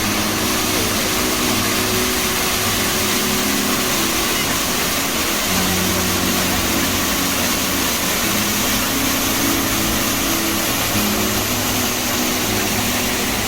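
Rushing water from a mountain valley stream, an even, steady noise with no breaks.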